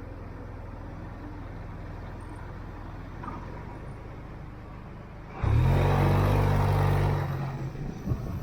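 Motorcycle engine running steadily at low revs, then opening up suddenly about five seconds in. It pulls loudly for about two seconds and eases off again.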